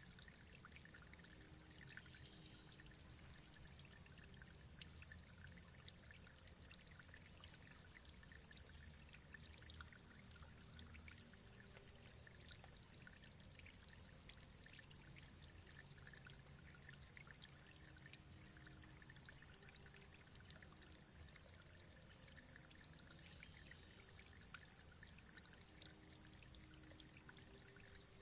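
Faint, steady running water, pouring and trickling without a break.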